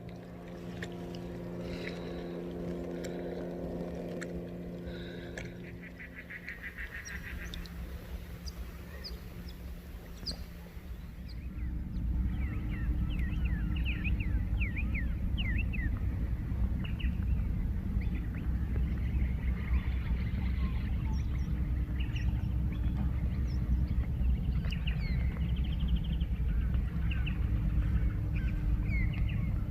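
Many birds chirping in short, quick calls over a steady low hum and rumble that grows louder about twelve seconds in.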